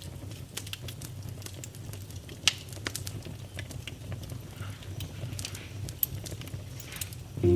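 Wood fire crackling, with irregular sharp pops over a low steady rumble of the flames; one loud pop about two and a half seconds in. A piano comes in right at the end.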